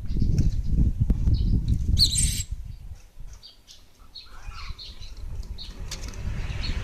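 Gelatik wingko bird giving short, high chirps, with one louder, harsh call about two seconds in, over low rumbling noise that drops away in the middle.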